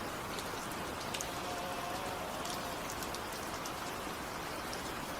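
Steady rain: a continuous hiss with scattered sharp drop ticks.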